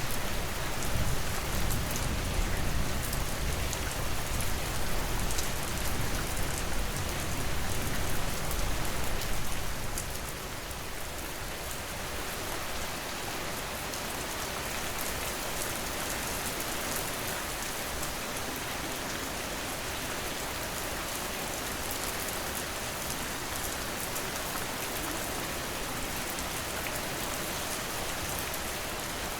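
Steady rain falling on hard surfaces, with a low thunder rumble for about the first ten seconds that dies away. After that, an even hiss of rain.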